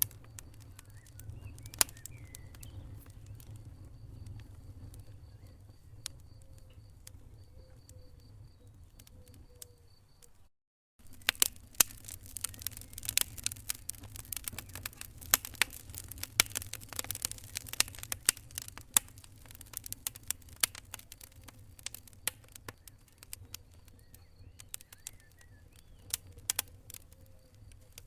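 Wood fire crackling and popping in a fireplace over a low steady rumble of the flames. The pops are sparse at first, the sound cuts out for about half a second some ten seconds in, and then resumes with denser, louder crackling.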